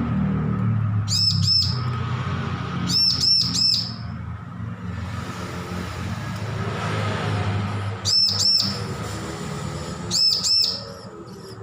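Young bar-winged prinia (ciblek), just weaned, calling in four short bursts of two or three high, arched chirps, over a steady low rumble.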